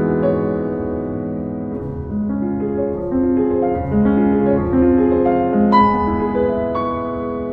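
Solo piano music: a slow passage of held notes and chords, with a louder chord struck a little before six seconds in.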